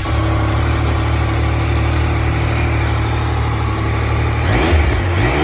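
2020 Yamaha XSR900's inline three-cylinder engine idling steadily, with a brief rise in pitch and level near the end.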